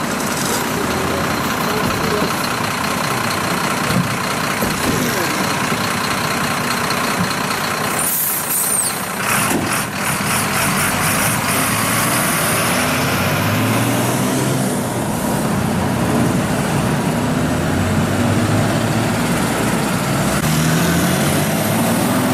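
Truck engine idling steadily in the street, with people talking over it.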